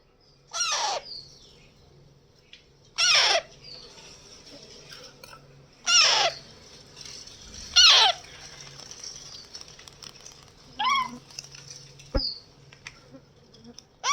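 Pet parrot calling: about six loud, short calls a few seconds apart, each falling in pitch.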